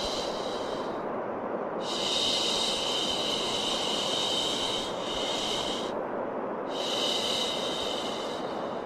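Long 'shhh' shushing sounds, each lasting one to a few seconds with short breaks, repeated over a steady bed of white noise, used to soothe a crying baby to sleep.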